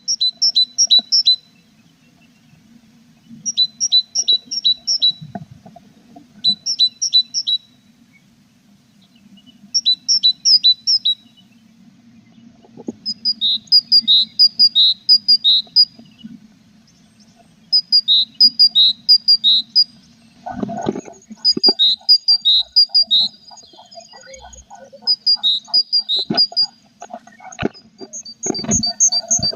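Tits chirping in short bursts of quick, high repeated notes, one burst every two to three seconds, over a steady low hum. From about two-thirds of the way in there are several knocks, as of birds moving in the nest box.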